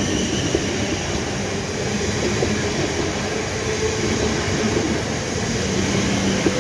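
A train running through a station: a steady, loud rumble of wheels on rail, with a low hum and a faint high whine.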